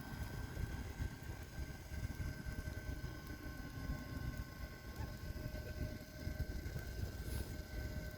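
Wind buffeting the microphone: an uneven low rumble that rises and falls, with a few faint steady high tones behind it.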